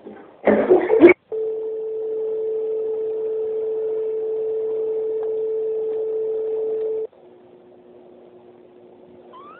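A loud, short, noisy burst about half a second in, then a single steady electronic tone like a dial tone, held for about six seconds before it cuts off abruptly. A faint low hum of two steady notes follows.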